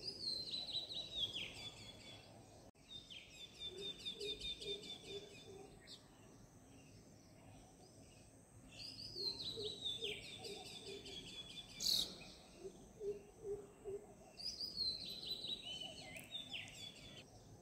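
Songbird singing a phrase of quick high notes that step downward, repeated about four times with pauses between, over low, evenly pulsed notes. A single sharp click about two-thirds of the way through.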